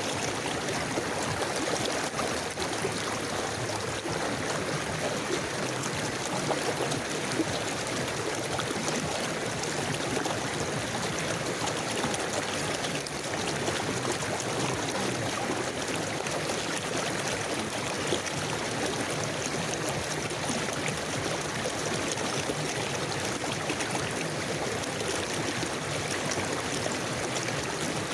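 A forest river flowing steadily: a continuous, even sound of running water with no breaks or single events.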